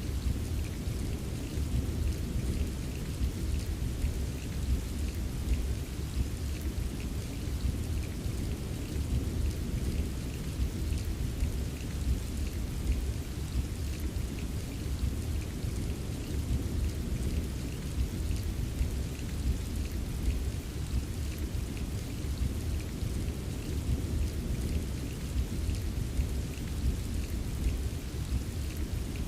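Steady rain falling, with scattered drops ticking, over a continuous deep low rumble of distant thunder.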